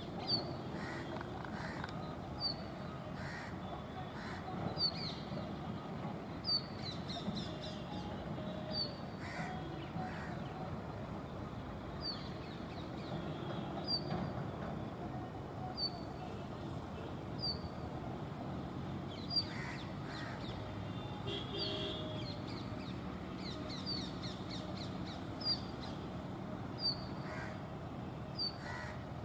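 An Indian chat (brown rock chat) calling repeatedly, giving short, high, down-slurred notes about every two seconds, over a steady low background noise.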